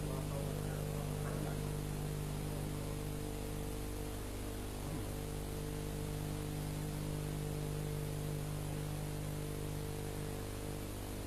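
Steady electrical hum with an even hiss underneath, from the recording and sound system of a Quran recitation, in a pause with no voice.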